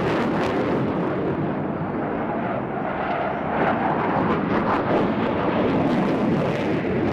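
Two Panavia Tornado GR4 jets flying a display, a loud, rough jet rumble that swells a little midway through.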